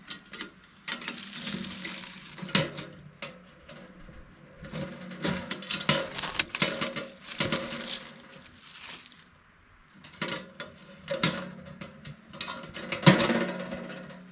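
Camp gear being handled: irregular rustling in swells of a second or two, with scattered light clinks and knocks, the sharpest knock near the end.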